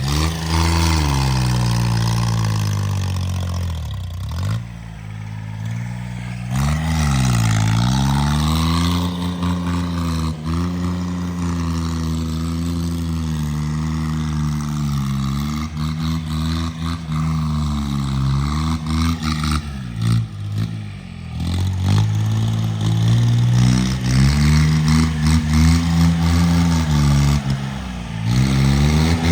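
Engine of a homemade 26 hp tractor running steadily, its revs dropping and climbing again several times.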